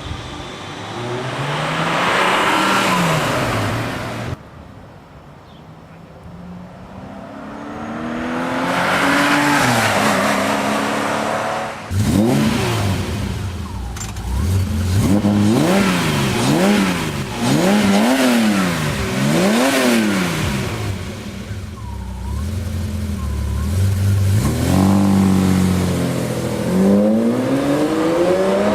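Ferrari Testarossa flat-12 engine through a Muffler Tech aftermarket exhaust, revved repeatedly. A few long climbs and falls in pitch give way in the middle to a quick run of about seven blips, roughly one a second, and a last rising rev comes near the end.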